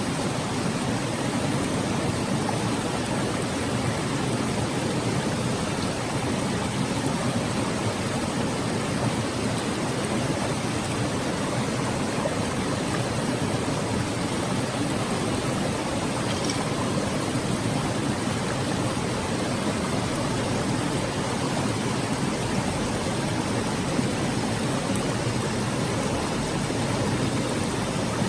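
Mountain stream babbling: a steady, even rush of flowing water with no breaks.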